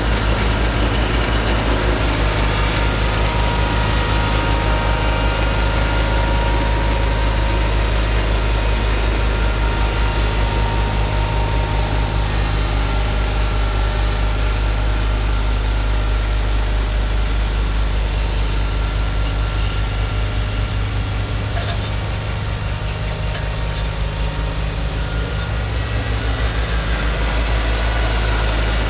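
Tractor engine running steadily while driving a snowblower, a continuous low engine note that eases slightly about two-thirds of the way through.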